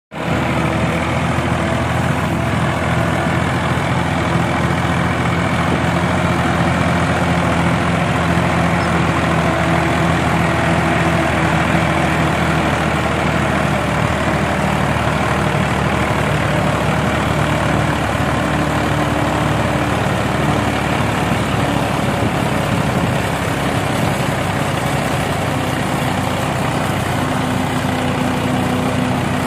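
Ford 3610 tractor engine running steadily, its pitch shifting slightly now and then.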